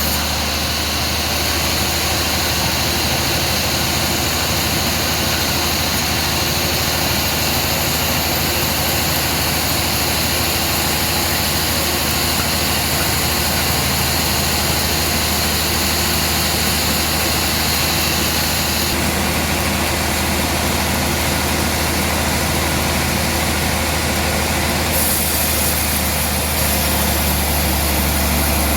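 Sawmill machinery running steadily: a deep engine-like hum under a broad hiss, with the hiss changing character about two-thirds of the way through.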